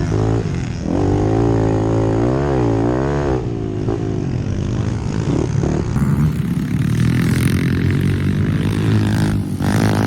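Pit bike engines running and revving, the pitch rising and falling as the throttle is worked.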